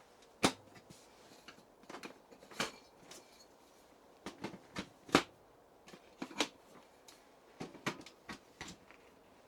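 Irregular sharp clicks and knocks with light rustling between them: things being handled and moved about at close range. The sharpest knocks come about half a second, two and a half seconds and five seconds in.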